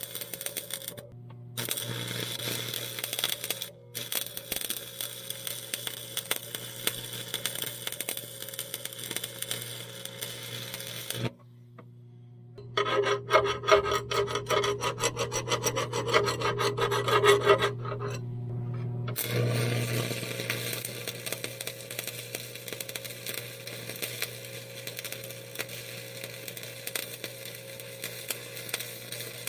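Grinder grinding on the steel loader uprights of a backhoe, grinding out cracks before welding. The sound is a rough, scraping grind that stops and restarts abruptly several times, and is louder and more evenly pulsing for a few seconds past the middle.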